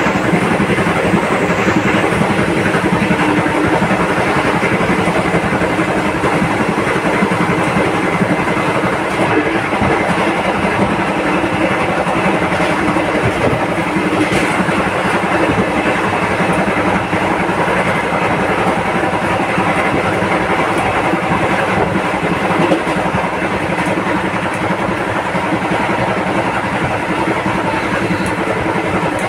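Steady running noise of a passenger express train moving at speed, heard from on board the coach: wheels on the rails and the coach's motion making a continuous loud din.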